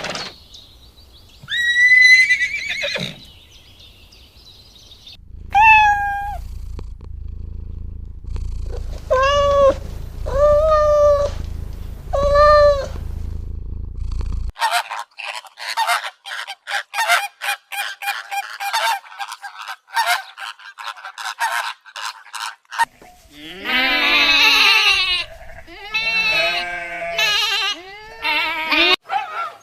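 A string of different animal calls with no talking: a couple of single calls, then three bleats about a second apart, a long run of rapid high-pitched chattering, and near the end several overlapping bleating calls.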